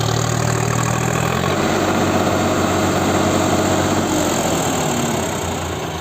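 Tractor diesel engine running steadily, its note shifting about a second and a half in.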